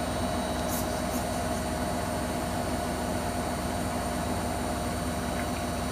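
Hoover Nextra HNWL7146 washer dryer spinning at high speed, a steady whine and hum with no change in pitch.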